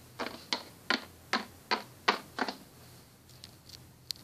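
Quick, light walking steps, evenly spaced at about two and a half a second, giving way to a few fainter scattered taps after about two and a half seconds.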